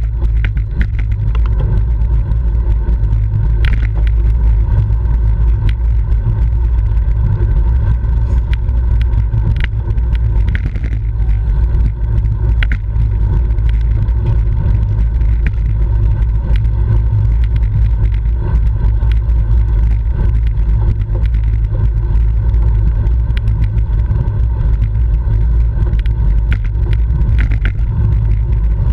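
Steady wind rumble buffeting the microphone of a camera mounted on a racing bicycle at speed, with a few faint ticks and clicks over it.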